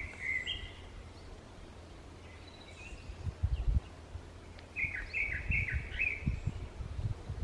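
A bird calling in a forest: a couple of short phrases, then a quick run of about five repeated down-slurred notes about five seconds in. Low thumps come and go underneath.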